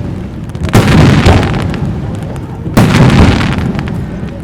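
Aerial firework shells bursting overhead: two loud booms about two seconds apart, each trailing off in a long rumbling echo.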